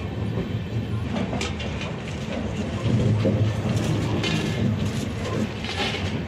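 A passenger train's coach wheels running over the track: a steady low rumble, louder from about three seconds in, with a few irregular clacks as the wheels cross rail joints and points.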